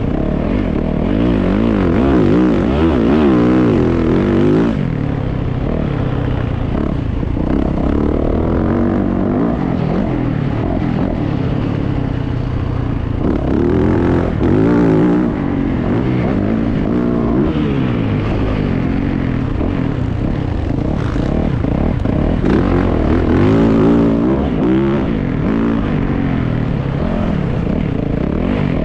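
A Yamaha motocross bike's engine, heard from on the bike, revving up and falling off again and again as it is ridden around a dirt track.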